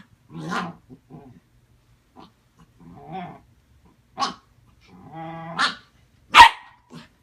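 Puppy barking in short, sharp, irregularly spaced barks, with quieter yaps between them. The loudest barks come about four and six seconds in, and a longer drawn-out call sits between them.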